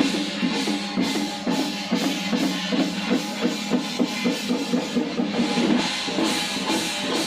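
Drum-led percussion music with a fast, steady beat that runs on without pause.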